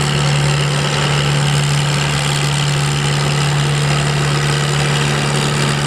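Farmall H tractor's four-cylinder gas engine running at a steady speed, a constant drone with no change in pitch.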